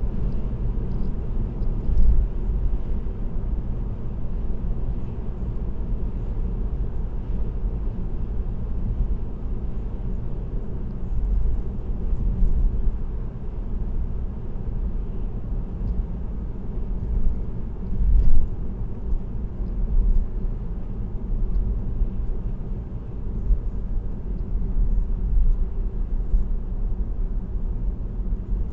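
Steady low rumble of a car cruising at highway speed, tyre and road noise with the engine under it, heard from inside the car. There are brief louder bumps about two seconds in and again around eighteen seconds.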